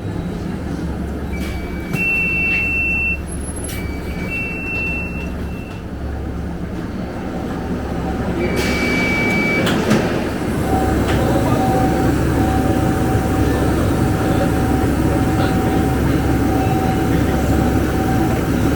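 Scania K250UB bus's diesel engine running with a steady drone. Short high electronic beeps sound a few times in the first several seconds and once more about halfway. A knock comes about halfway, and then the engine and road noise grow louder and stay up.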